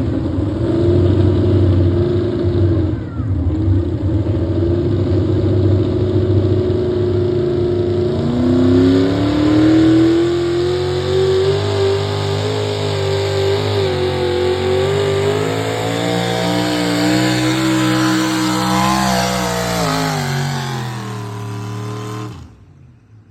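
Pulling vehicle's engine running hard at full throttle under heavy load. Its pitch climbs about eight seconds in, holds, then sags around nineteen seconds as the engine bogs down, and it shuts off about twenty-two seconds in.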